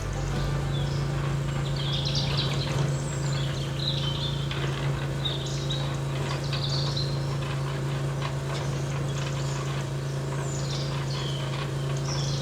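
Birds chirping in short repeated calls over a steady low mechanical hum.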